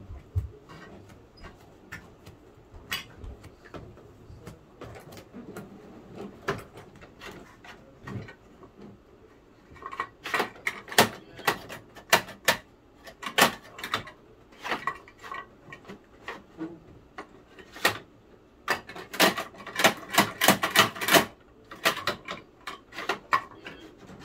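Hard plastic clicking and clattering of a Bruder toy garbage truck and its bins being handled. Scattered clicks at first, then two spells of rapid knocking, the second one louder, near the end.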